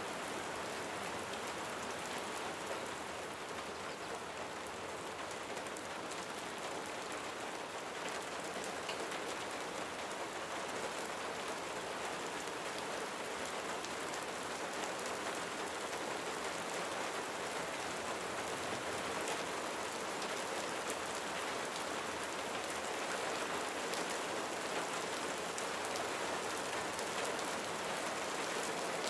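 Steady rain falling on a roof: a dense, even hiss with scattered drop ticks, getting slightly heavier toward the end.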